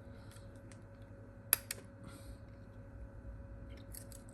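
Two sharp clicks in quick succession about a second and a half in, from small hand tools working on a phone's parts, with a few faint light ticks near the end over a steady low hum.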